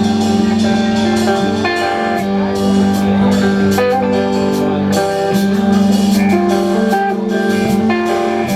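Live band playing an instrumental passage: guitar with a steady drum beat, no vocals.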